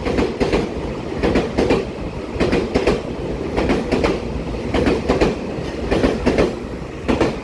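Taiwan Railways EMU3000 electric multiple unit passing along a station platform: steady rumble of the cars with wheels clicking over rail joints in close pairs about once a second as each bogie goes by.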